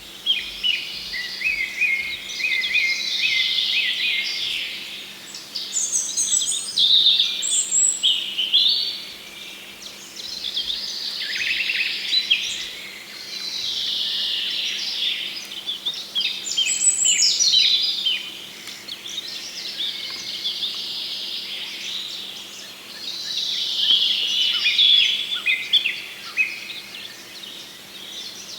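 Small songbirds singing and chirping together in a busy chorus of high, varied phrases that swell and fade every few seconds.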